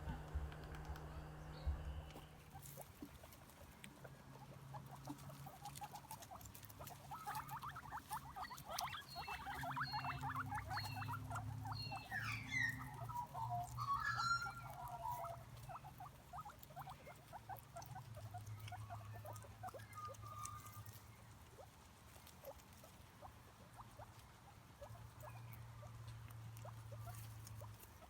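A small animal makes rapid light pattering and scratching sounds. A few short squeaks and chirps come about halfway through.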